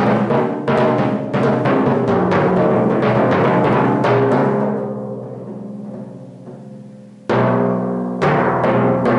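Solo timpani playing: a rapid run of strokes on several pitched drums opens, then the drums ring and die away for a few seconds. About seven seconds in, a loud new stroke starts a further group of strokes.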